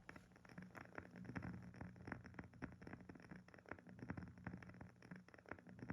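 Faint, irregular crackling and popping of a wood fire, several snaps a second, over a low steady hum.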